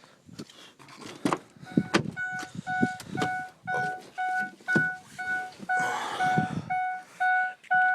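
Pickup truck's cab warning chime beeping steadily about twice a second, with knocks and thumps of someone climbing in and handling the cab.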